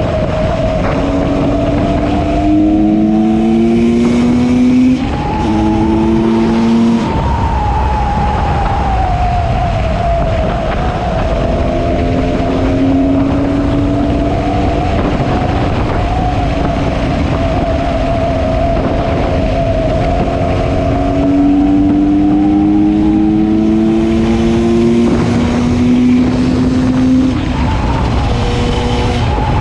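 A GasGas 300 EC's single-cylinder two-stroke engine, breathing through an FMF Powercore 2 silencer, being ridden under load. Its pitch climbs in several long rises and drops back between them, as it is run up through the gears.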